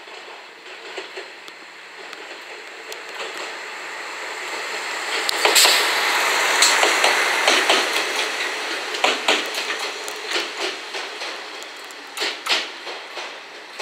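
KiYa 141 series diesel track-inspection railcar passing close by. The running noise builds to a peak about halfway through and then fades as the train moves away, with sharp wheel clacks over rail joints and points throughout.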